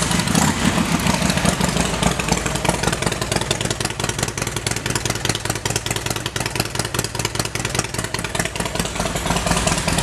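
A 2004 Harley-Davidson Road King Classic's 88 cubic inch V-twin idles steadily through an aftermarket Vance & Hines exhaust, a rapid, even pulsing run.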